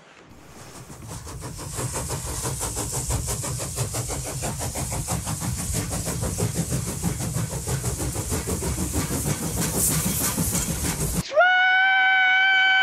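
A train running on the rails with a fast, even clatter, growing louder over the first couple of seconds. Near the end a loud, steady locomotive whistle blast cuts in with a short upward slide.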